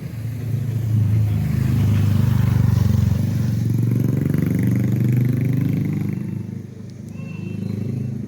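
A motor vehicle's engine running close by, its pitch rising and then falling away, fading after about six seconds.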